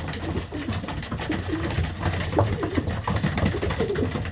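Racing pigeons cooing in a small loft, many short low calls from several birds overlapping, with scattered light clicks and scuffles of birds moving.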